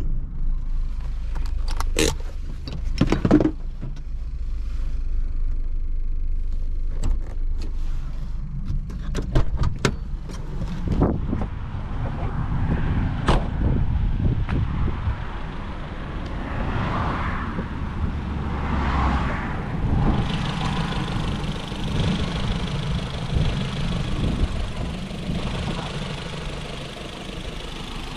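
Renault Twingo's 1.2-litre four-cylinder petrol engine running with a steady low rumble inside the cabin, broken by several sharp clicks and knocks in the first half. A steady hiss joins about two-thirds of the way in.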